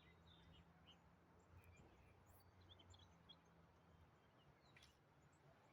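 Near silence: a faint low wind rumble, with a few faint, short high chirps.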